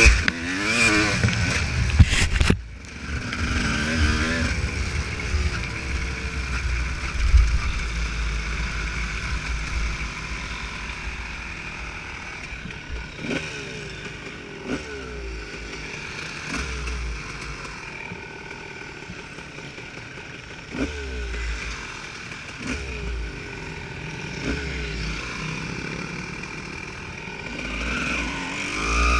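Off-road motorcycle engine revving up and down again and again while riding, with wind rumbling on the microphone.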